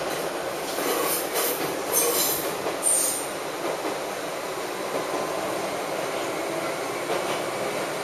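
Joshin Electric Railway electric train heard from inside the cab, rolling through the points of a passing loop. High-pitched wheel squeal rises from about one second in and peaks near two and three seconds, then gives way to steady wheel-on-rail rolling noise.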